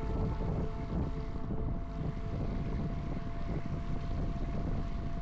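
A boat's motor running steadily, with a dense low rumble and a few faint steady tones above it.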